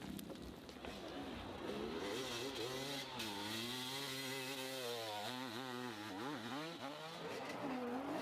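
Hill-climb motorcycle engine revving, its pitch rising and falling again and again as the throttle is worked, with a quick wavering in the middle.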